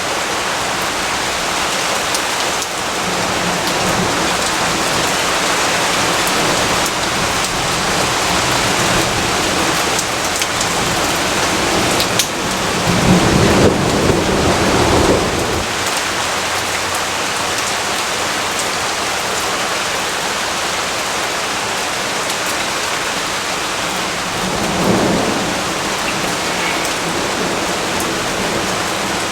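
Steady, heavy rainfall, with a low rumble of thunder swelling about 12 seconds in and a fainter rumble near the end.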